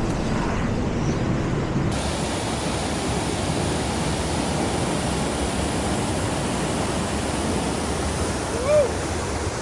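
Steady rushing of a waterfall, an even roar of falling water that turns brighter about two seconds in. A brief vocal sound comes near the end.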